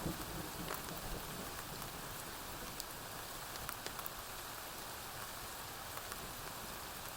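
Steady rain falling on a porch roof, an even hiss with scattered sharp ticks, and the tail of a distant thunder rumble fading out in the first second.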